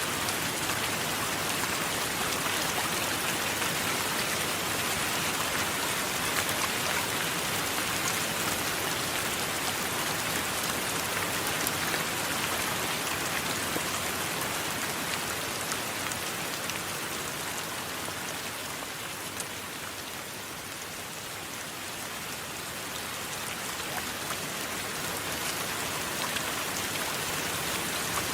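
Steady rain falling, an even hiss with fine patter of drops; it eases a little about two-thirds of the way through and then builds back. No thunder is heard.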